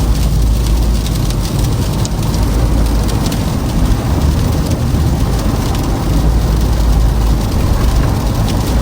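Toyota Camry driving on a snow-covered, icy road: a steady low rumble of tyres and road noise, with faint scattered ticks over it.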